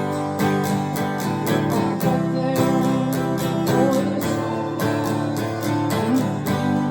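Acoustic guitar strummed in a steady rhythm, about four strokes a second.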